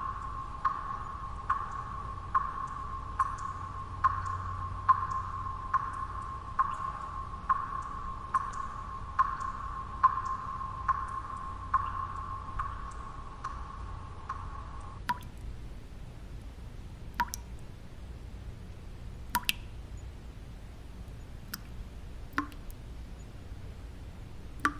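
Water drops falling, over a low steady white-noise bed. For about fifteen seconds they land regularly, a little more than once a second, each with a short ringing plink. After that only a few scattered drops fall.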